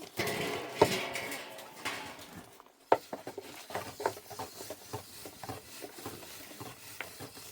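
A short pitched call at the start, then a string of irregular light clicks and knocks, like cooking utensils being handled. The sharpest knock comes about three seconds in.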